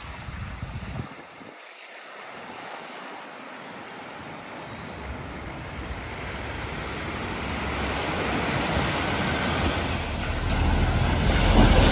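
A vehicle pushing through deep flood water at a ford: a rushing, splashing wash of water that grows steadily louder as it comes closer and swells near the end.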